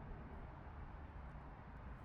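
Faint outdoor background noise: a steady low rumble with no distinct events.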